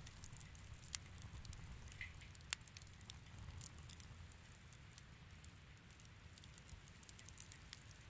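Wood fire in a fireplace crackling softly, with scattered small pops over a low rumble of the flames. The sharpest pops come about a second in and again about two and a half seconds in.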